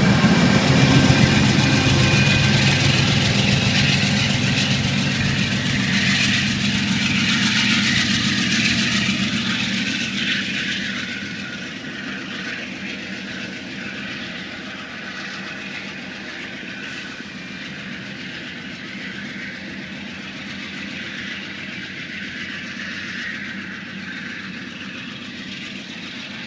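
Amtrak Pacific Surfliner passenger train, hauled by a Genesis diesel locomotive, pulling out: a low engine drone and the rolling of the cars on the rails, dropping away about eleven seconds in to a fainter steady rumble as the train moves off.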